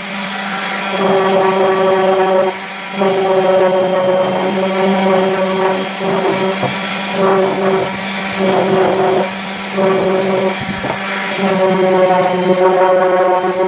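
Electric power tool motor running continuously on a pine block, with a steady hum under a whine that swells and drops every second or two as the tool is pressed into the wood and eased off.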